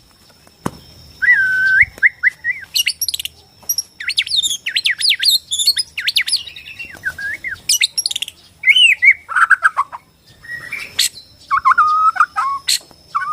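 White-rumped shama (Bornean murai batu) singing: a run of varied loud phrases of clear whistles, rapid trills and chattering notes, broken by short pauses. A faint steady high tone sits underneath.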